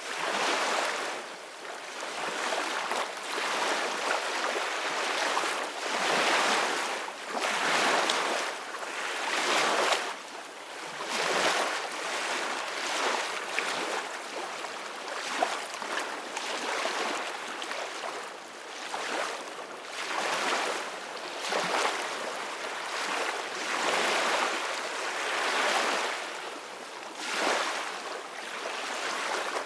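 Ocean waves breaking and washing in, a steady surf hiss that swells and falls back every couple of seconds.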